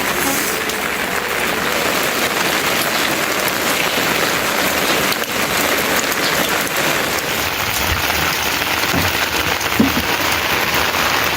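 Heavy rain falling steadily, a dense even wash of raindrops on surfaces.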